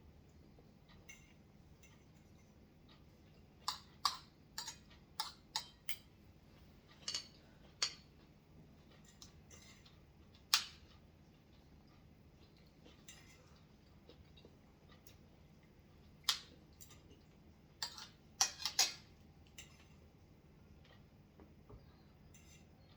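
Cutlery tapping and clinking against dishes while eating: scattered short, sharp clicks, with quick runs of them about four and eighteen seconds in.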